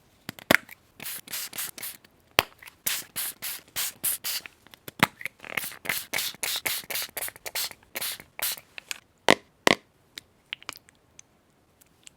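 Paper being handled for scrapbooking: a quick run of short rustling, rubbing strokes with a few sharp taps among them, thinning out near the end.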